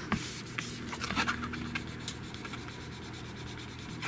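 Scratching and rubbing on a phone's plastic screen protector as air bubbles are pressed out toward its edge, with scattered small clicks.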